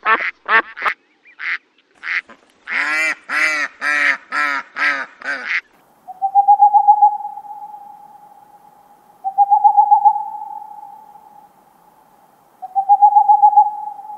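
Domestic ducks quacking: scattered quacks, then a quick run of about eight quacks a few seconds in. Then an owl calls three times, each a long, wavering hoot on one pitch that trails off.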